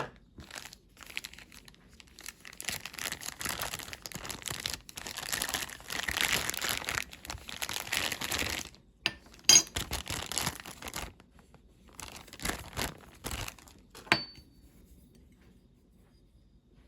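Packaging being crinkled and torn open, an irregular rustle lasting over half the time. Then two sharp clicks, each with a brief high ring, come a few seconds apart.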